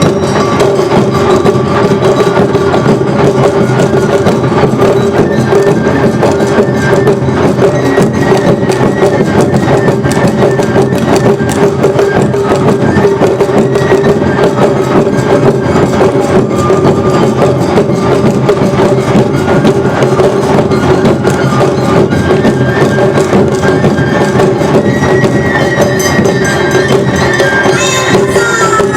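Awa Odori festival band playing a fast, steady two-beat rhythm: drums and clacking hand gongs (kane) over a steady flute and shamisen melody.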